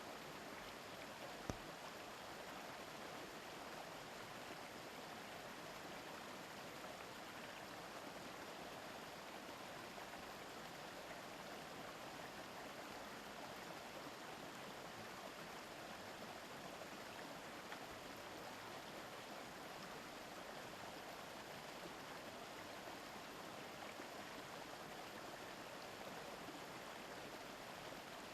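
Mountain stream babbling steadily over rocks, with one brief sharp click about a second and a half in.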